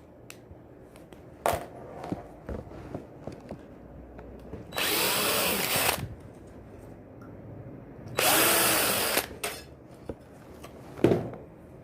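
Electric drill run in two short bursts of about a second each, a few seconds apart, with a few knocks and handling clicks between.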